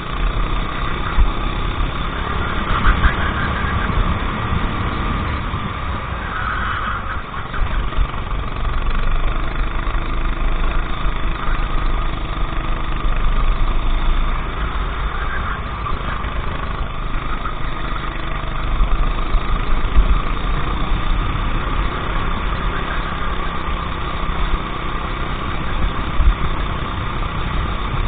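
Racing kart engine running steadily, a continuous engine sound without clear revving rises or falls.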